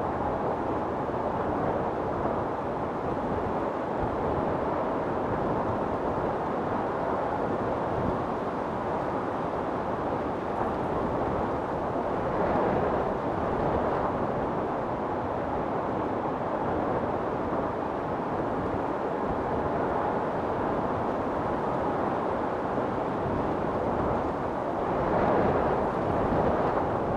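Wind storm blowing hard and steadily, a low, rushing noise with gusts swelling about halfway through and again near the end.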